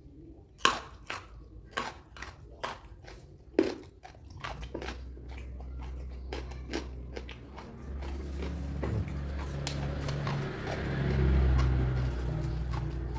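Close-up eating of raw vegetables: a run of sharp, crunchy bites in the first few seconds, then steadier, lower chewing that grows louder toward the end.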